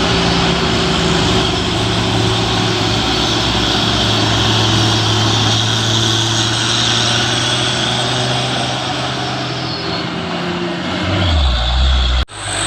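Heavy truck's diesel engine running at steady revs. About eleven seconds in, the engine note drops lower, and the sound breaks off for an instant just before the end.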